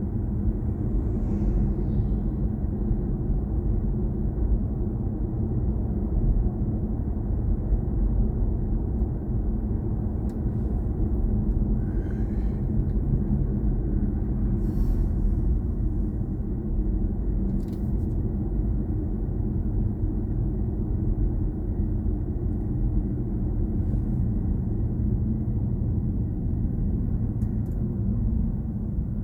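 Steady low road and tyre rumble inside the cabin of a moving BMW i4 M50, a battery-electric car with no engine note.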